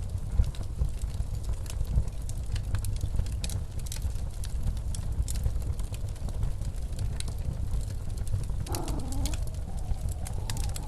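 Fireplace crackling with scattered sharp pops over the low, steady rumble of a snowstorm wind. Near the end a wavering howl rises and falls for about two seconds.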